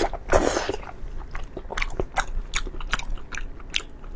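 Close-miked mouth sounds of a person eating: biting and chewing, heard as a string of short wet clicks and crunches, with a louder burst at the start.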